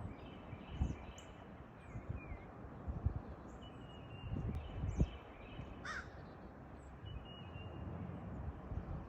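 A crow caws once about two-thirds of the way through, while small birds chirp, over low rustling with a few dull thuds.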